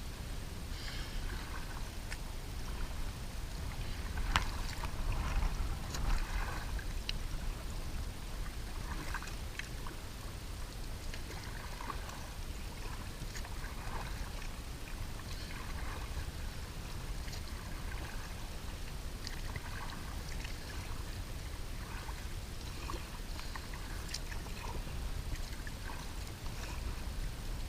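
Kayak paddle strokes dipping and splashing in lake water, about one every two seconds, over a low steady rumble.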